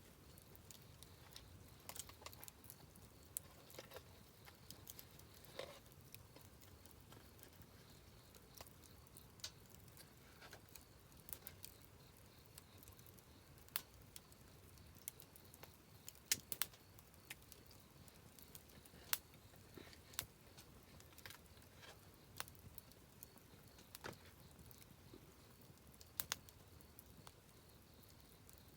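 Wood campfire crackling: faint, irregular pops and snaps over a low hiss, with a few sharper cracks scattered through.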